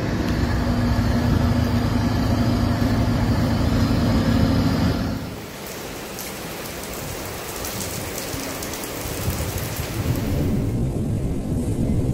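A loud roar of rushing floodwater and wind. About five seconds in it cuts to a quieter, steady hiss of heavy rain on a street, and a low rumble of thunder swells near the end.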